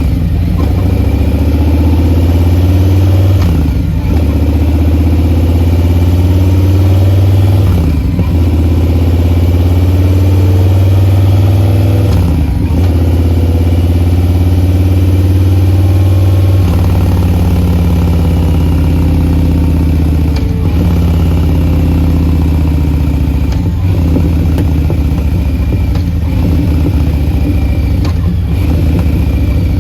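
Harley-Davidson Low Rider S's Milwaukee-Eight 114 V-twin running through a Bassani Short Ripper 2-into-1 exhaust, its pitch rising and dropping back every few seconds as the throttle is worked.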